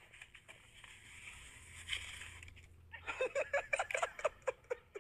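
A steady hiss, then from about three seconds in a person laughing in a quick run of short bursts.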